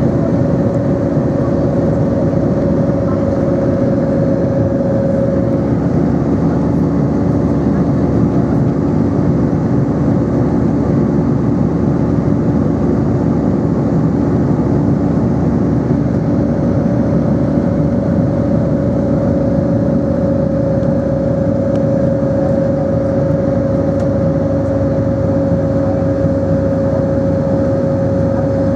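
Airbus A320 jet engines heard from inside the passenger cabin: a steady, loud roar with a steady droning hum over it.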